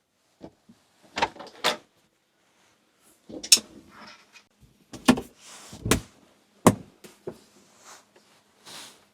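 A series of knocks and clunks, about eight in all, at irregular intervals.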